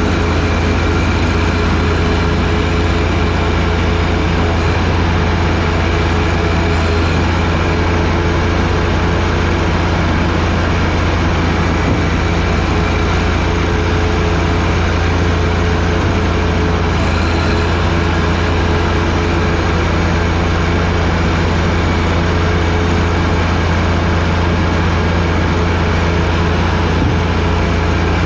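John Deere 1025R sub-compact tractor's three-cylinder diesel engine running at a steady, unchanging speed while driving a 47-inch front snowblower.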